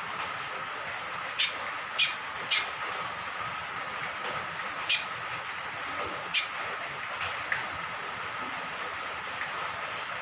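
Cucak kombok (kecial kombok), an eastern Indonesian honeyeater, giving short, sharp, high call notes, five in the first seven seconds with a fainter one after, over a steady hiss of falling rain.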